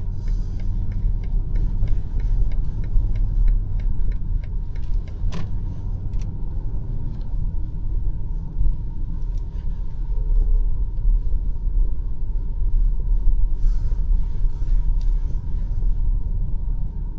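BMW X5 M50i driving, a steady low rumble of engine and tyres on the road. Quick light ticks run through the first few seconds, a single sharp click comes about five seconds in, and a brief hiss rises and fades a couple of seconds before the end.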